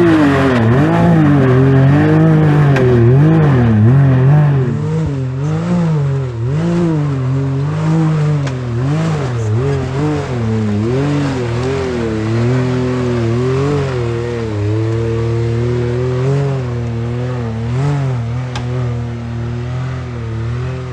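Can-Am Maverick X3 Turbo's turbocharged three-cylinder engine being worked on and off the throttle as it climbs a steep rock ledge, its pitch repeatedly rising and falling. The first few seconds carry extra hiss, likely from tyres spinning or rock being thrown.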